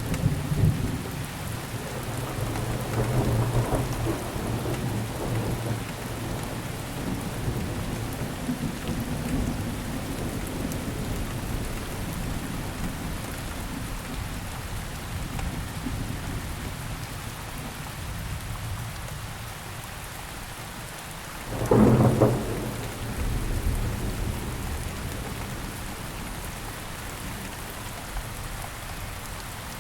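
Steady rain falling, with thunder: a low rumble dying away over the first several seconds, then a sharper thunderclap about two-thirds of the way through that rolls off over a few seconds.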